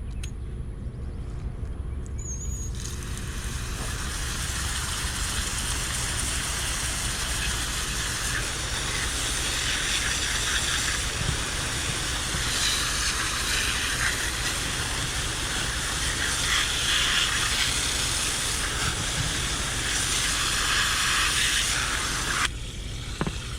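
Running water hissing steadily as rubber boots are rinsed off after an ultrasonic cleaning. It starts about three seconds in and stops abruptly shortly before the end.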